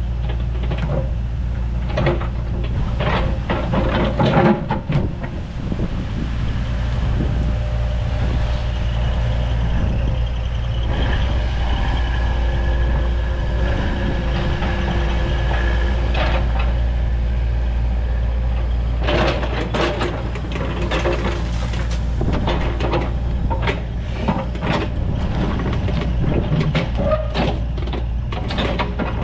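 Takeuchi TB290 compact excavator's diesel engine running steadily under load, with its hydraulics working. Knocking and scraping from the bucket handling limestone rock come in the first few seconds and again through the last ten.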